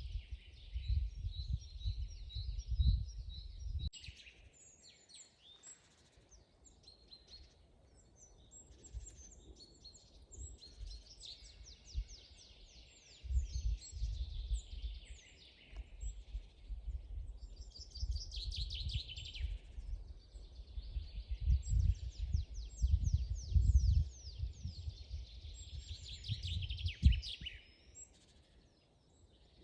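Several songbirds singing in a forest, with chirps and fast trills of short repeated notes throughout. A low rumble that comes and goes, louder than the birds, runs underneath for long stretches.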